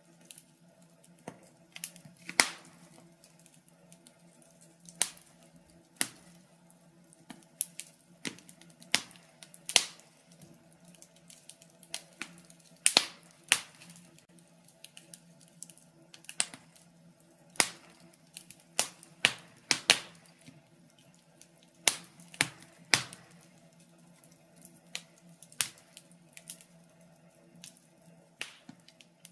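Wood fire crackling in a fireplace: irregular sharp pops and snaps about every second, some louder than others, over a faint steady low hum.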